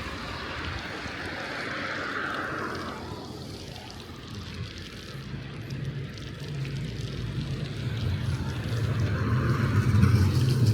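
A motor vehicle's low hum, growing louder toward the end as it draws near, over a hiss of tyres on a snowy road.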